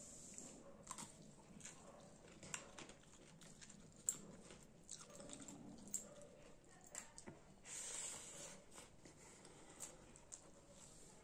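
Quiet close-up eating sounds: soft chewing, lip smacks and scattered small mouth clicks as rice and a cucumber slice are eaten by hand, with a brief rustling noise about eight seconds in.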